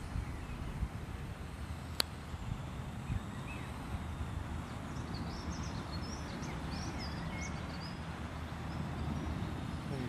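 Outdoor background noise with a low rumble, one sharp click about two seconds in, and small birds chirping for a few seconds in the middle.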